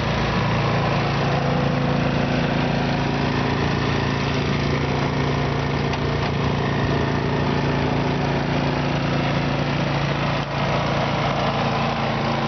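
Simplicity snow blower's engine running at a steady speed.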